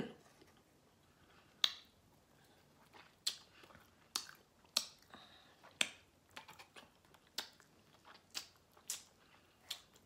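Wet mouth clicks and lip smacks of someone eating a sauced barbecue rib, sharp and short, coming about once a second.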